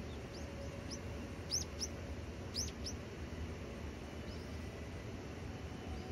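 A small songbird calling in short, high chirps, a few single ones and two louder quick pairs, over a steady low background rumble.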